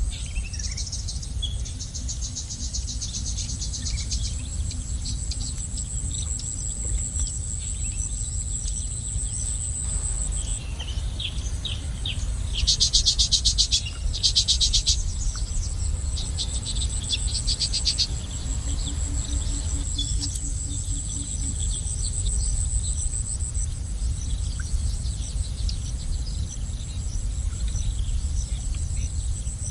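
Outdoor nature ambience: a steady high-pitched insect buzz runs under bird chirps and rapid trills. The loudest trills come in two bursts about halfway through, over a low background rumble.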